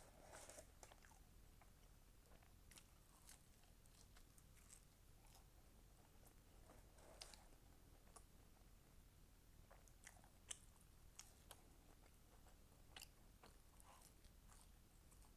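Faint close-miked chewing of fast food: soft wet mouth clicks and scattered crisp crunches, with a sharper click about ten seconds in.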